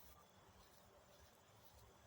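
Near silence: only faint, steady low background noise.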